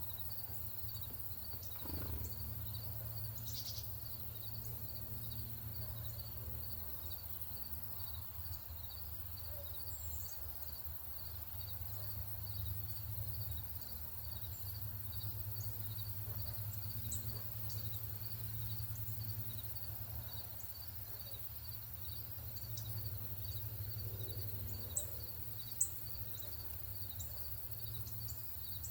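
Outdoor ambience with an insect chirping evenly at about two to three chirps a second throughout, a few short, high bird chip notes, and a steady low rumble underneath.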